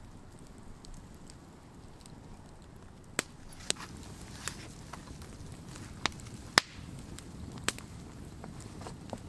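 Wood campfire burning: a steady low rumble with scattered sharp crackling pops that start about three seconds in, the loudest just past the middle.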